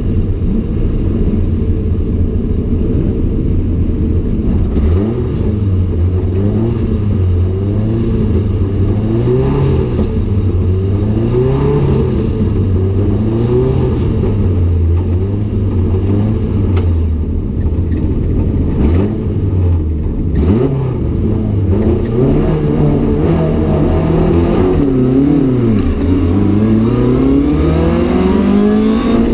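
Mk.1 Ford Cortina GT race car's four-cylinder engine at racing revs. Its pitch climbs and drops again and again through gear changes, dips sharply twice about two-thirds of the way in, and climbs in one long rise near the end.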